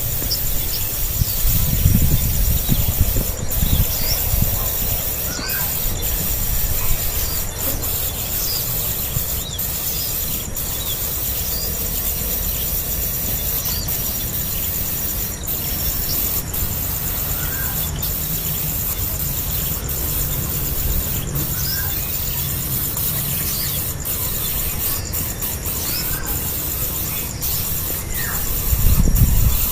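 Nestling songbirds giving many short, high-pitched begging squeaks, scattered irregularly throughout, while being hand-fed. A steady low rumble sits underneath, with a few louder thuds near the end.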